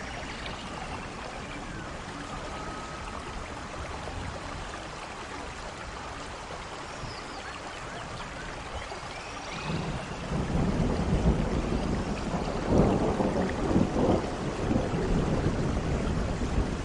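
Rainforest rain falling on foliage, a steady hiss with a few faint bird calls. About ten seconds in, a louder low rumble swells up and stays under the rain.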